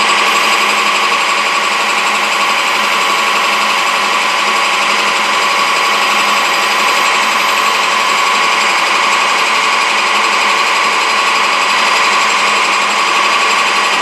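Metal lathe running steadily while taking a light cut on a Delrin bushing, a loud, even mechanical whir of motor and gears.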